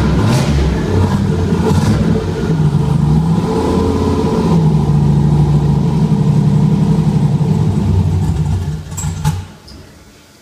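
Turbocharged 6.0L engine with an aftermarket ON3 Performance turbo running loudly, its speed rising and falling a little, then shutting off about nine seconds in.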